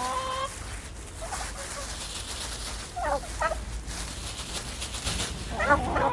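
Farm animal calls: a short rising call at the start, two brief warbling calls about three seconds in, and a louder warbling call near the end.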